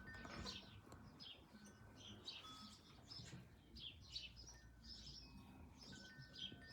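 Faint chorus of small songbirds chirping and twittering, a dense run of short high chirps with a few brief thin whistled notes among them.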